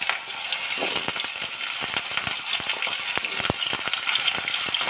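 Hot mustard oil sizzling steadily in a metal kadai as potato pieces are dropped in. Many sharp clicks and crackles sound through it as the pieces land and the oil spits.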